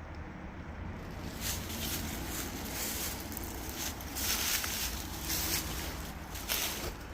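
Footsteps of a person walking on rough ground, crunching about once or twice a second from about a second in, over a low steady rumble.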